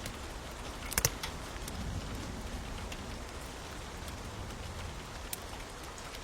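Steady rain hiss with scattered sharp pops and crackles from a wood fire, including a loud double pop about a second in.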